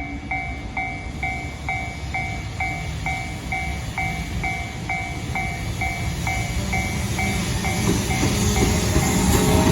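Japanese level-crossing warning bell ringing its electronic two-tone ding about two to three times a second, over the low rumble of an approaching freight train led by an EF210 electric locomotive. The train grows louder near the end and covers the bell.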